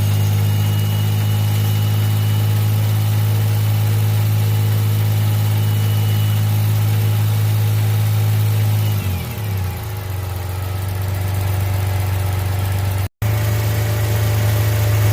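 Suzuki Jimny JA11's small three-cylinder engine idling steadily under the AC repair, with its note dipping briefly about nine seconds in; near the end the sound drops out for an instant.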